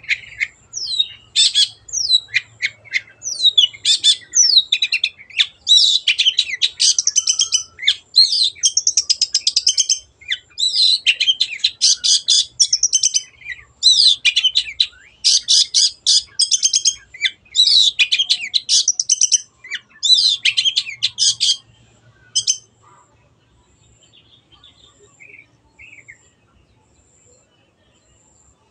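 Long-tailed shrike (cendet) singing a fast, continuous run of short, sharp chattering notes. The song stops about three quarters of the way through, leaving only a few faint calls.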